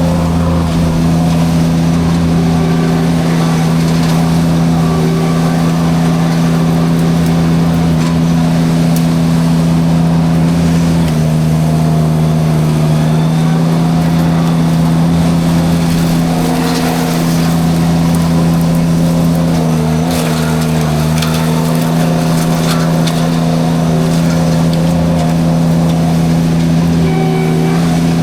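Derette V1000 mini skid steer's engine running hard with its drum forestry mulcher spinning, the engine note dropping slightly in pitch about eleven seconds in and dipping again around twenty seconds. Scattered sharp crackles and snaps of brush and wood being shredded come through over the engine.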